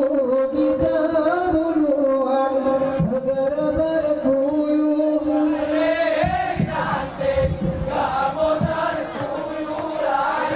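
A group of men chanting a Saman song in unison at a high pitch, holding long notes with slight bends. Sharp claps and body slaps from the Saman dance mark the rhythm, coming thicker and faster from about six seconds in.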